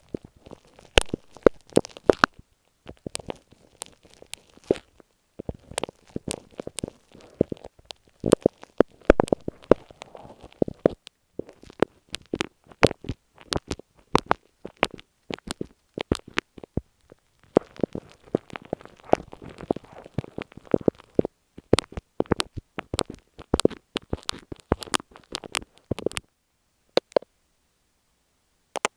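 Stick glue worked right against an earphone microphone: dense, irregular sticky crackles and clicks with a soft rubbing underneath. It stops about three seconds before the end, followed by a couple of stray clicks.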